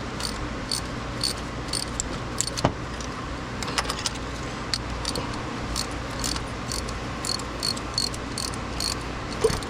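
Short high chirps repeating evenly about twice a second over a steady low hum, with a couple of sharper clicks in between.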